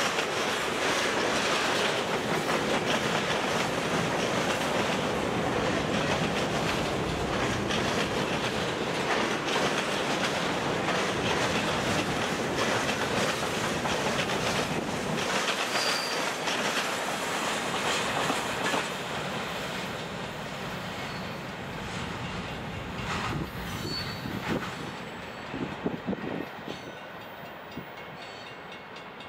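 Freight cars of a long CN freight train rolling past close by: a steady rumble with wheels clacking over the rail joints. The sound drops off after about nineteen seconds as the train moves away, with a few clanks and short high squeaks later on.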